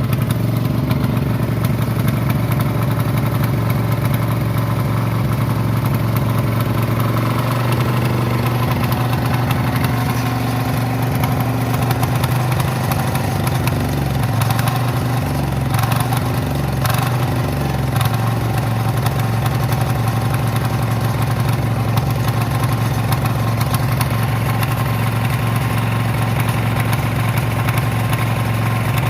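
Kama engine of a power weeder running steadily at idle, with a brief unsteadiness in its speed and a few sharp knocks about halfway through.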